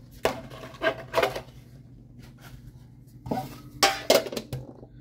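Small metal collector's tin and booster packs being handled: a few sharp clinks, knocks and rustles in two clusters, the second about three seconds in.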